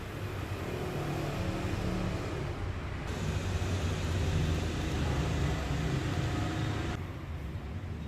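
A road vehicle's engine running steadily with road and traffic noise, as when riding through city streets; the hiss above it changes abruptly about three seconds in and again near the end.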